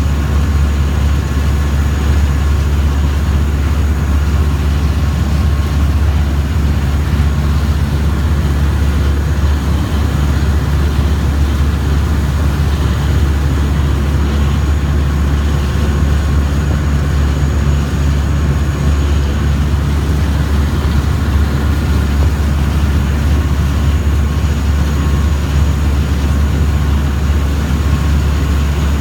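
River boat's engine running with a steady, loud low drone and no change in pace, as heard aboard.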